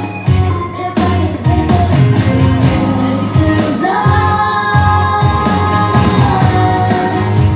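A song playing, with a sung melody over instrumental accompaniment.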